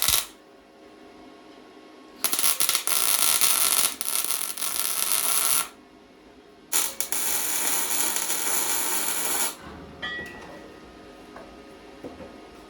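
Electric arc welder tack-welding a steel door hinge to the frame: two bursts of crackling, sizzling arc, each about three seconds long, with a pause between.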